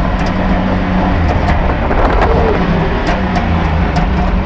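Triumph TR7 V8 rally car's engine running hard at stage speed, heard from inside the cabin, with road noise and scattered short clicks.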